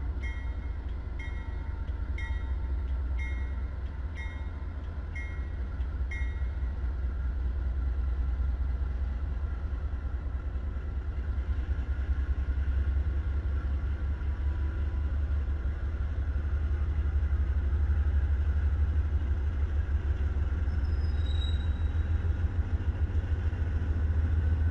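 Diesel freight locomotives rolling past, a steady low engine rumble that grows a little heavier in the second half. For the first six seconds a bell strikes about once a second, then stops.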